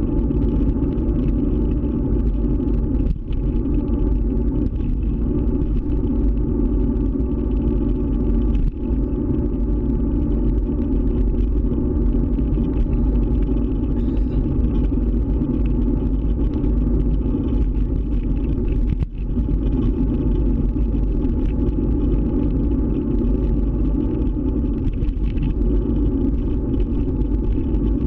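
Steady rumble of a scooter being ridden, heard from on board, with brief dips in level about three, nine and nineteen seconds in.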